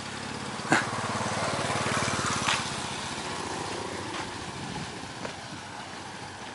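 Small motorbike engine passing close by on a street, getting louder over the first two seconds and then fading away.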